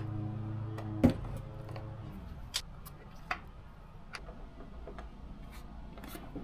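Scattered clicks and taps of plastic fairing parts and fasteners being handled and worked loose, the loudest knock about a second in. A low held musical tone runs underneath and stops about two seconds in.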